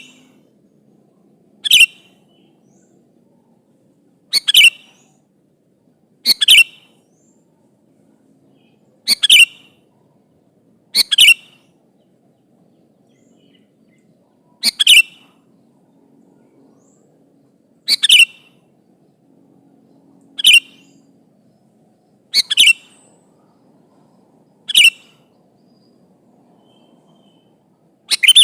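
Sooty-headed bulbul (kutilang) giving short, loud calls, one every two to three seconds, many of them a quick double note.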